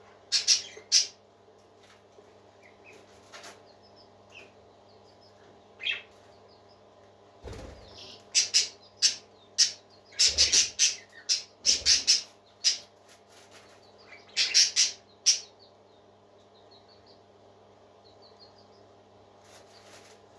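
Parakeets chirping in short, sharp, loud calls, bunched together about half a second in, again through the middle of the stretch, and once more a little later, with faint soft twittering in between. A steady low hum runs underneath.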